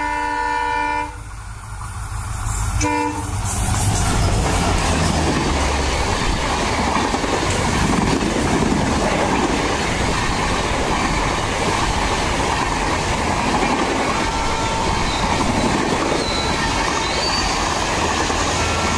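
An Indian Railways WDP4D diesel locomotive's horn sounds twice, a blast of about a second at the start and a short one about three seconds in. Then comes the continuous rumble and clatter of a train of LHB passenger coaches running past, with a faint wheel squeal near the end.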